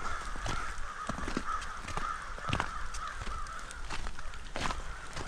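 Crows cawing over and over, with scattered sharp clicks and cracks throughout.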